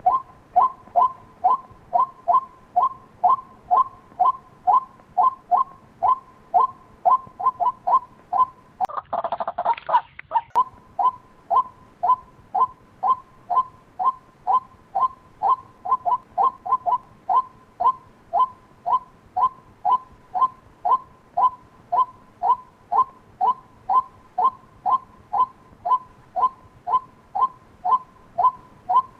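White-breasted waterhen call used as a decoy lure: short two-toned notes repeated steadily about twice a second. A brief hissing burst about nine seconds in.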